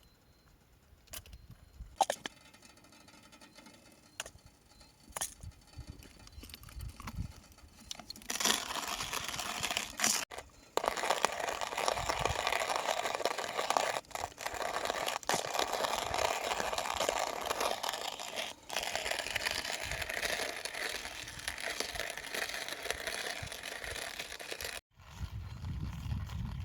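A few scattered clicks and knocks, then from about eight seconds in a long, dense crunching and crackling noise that stops abruptly near the end.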